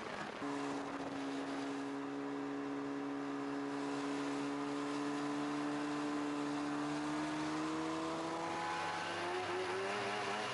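Snowmobile engine running under way. It sets in suddenly just after the start, holds a steady note, creeps up in pitch in the second half and wavers up and down near the end.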